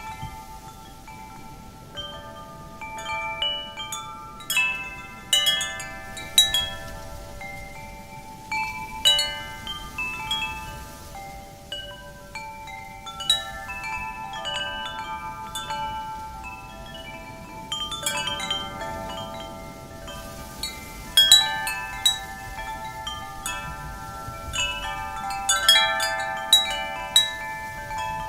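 Wind chimes ringing in the wind: metal tubes struck at random in clusters, their clear tones overlapping and fading slowly, over a soft rush of wind.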